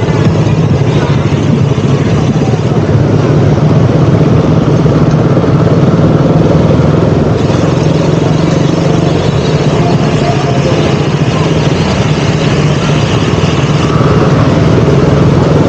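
KTM Duke 200 single-cylinder engine running at a fairly steady pace while riding, under a constant rush of wind and road noise.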